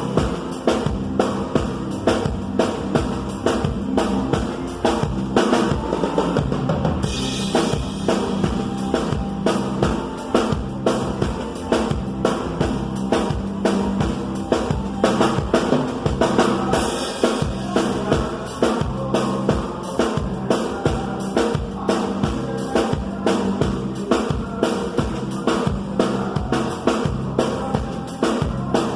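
Band music with a drum kit keeping a steady, even beat of bass drum and snare over a bass line.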